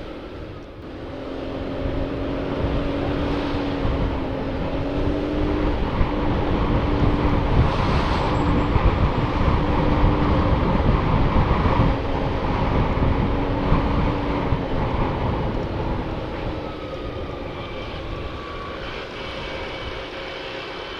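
Motorcycle engine running while riding, with wind rushing over the external microphone. Engine and wind noise build over the first few seconds, stay loud through the middle, and ease off toward the end as the bike slows.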